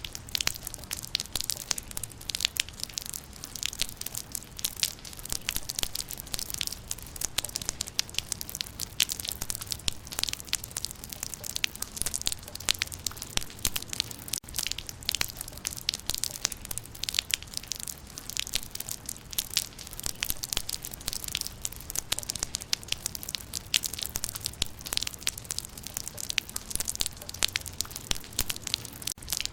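Rain falling on leaves: a dense, steady stream of sharp little drop ticks over a soft hiss.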